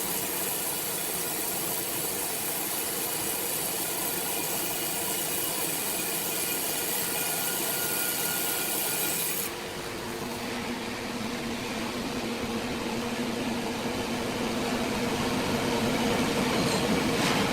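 Sawmill machinery running steadily with a high hiss that cuts off suddenly about nine and a half seconds in, after which a lower hum gradually grows louder.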